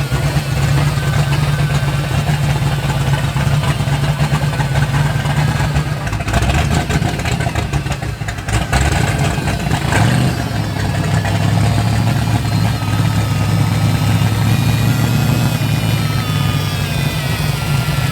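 Car engine idling steadily, settling to a slightly lower pitch about ten seconds in.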